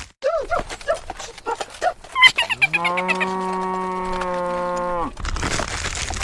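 A cow moos once: a long call that rises, then holds steady for about two seconds before cutting off sharply. A quick run of short pitched squeaks comes before it.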